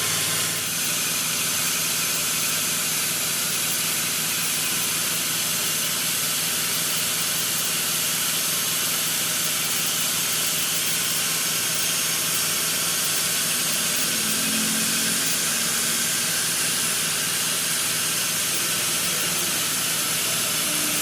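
Workshop machinery running steadily: an even hiss with a faint low hum underneath, unchanging throughout.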